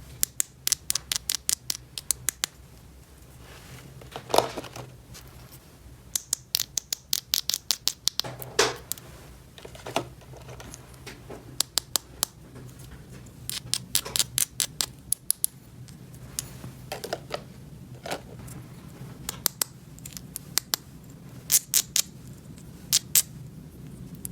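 Small plastic toy pieces being handled: runs of quick clicks and taps in several clusters, with a few short scrapes between them.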